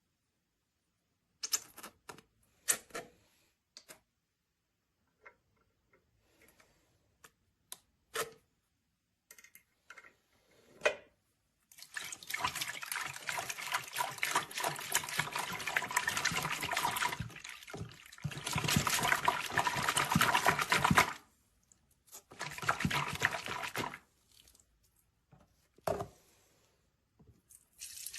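Water running from a tap into a sink in two long spells, after a stretch of scattered small clicks and knocks.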